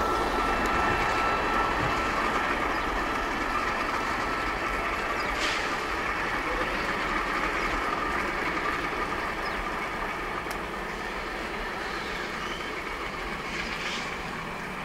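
MLW diesel locomotives running with a steady engine and rail noise that grows gradually fainter.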